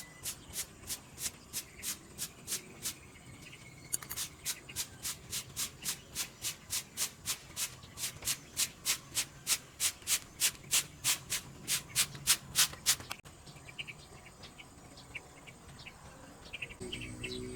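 Rhythmic rubbing or scraping strokes against a surface, about three a second, pausing briefly and then growing louder. They cut off suddenly about 13 seconds in, leaving faint short chirps.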